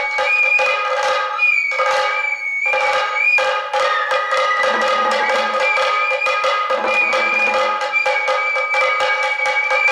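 Sato kagura festival music: a bamboo transverse flute plays a high, held melody with bending ornaments over rapid, even drum strokes.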